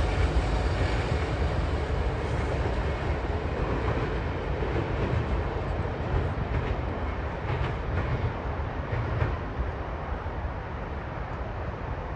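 Freight train rolling past, a steady rumble with a few faint clicks, slowly fading as it moves away.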